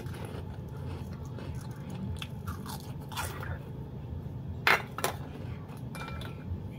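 A person chewing and biting prawn crackers (kerupuk udang) close to the microphone, with a few sharp crunches; the loudest comes a little under five seconds in.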